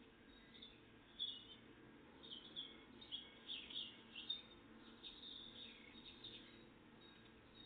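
Songbird singing faintly: a string of short, high chirps and down-slurred notes from about a second in until about six and a half seconds in, over a steady low background hum.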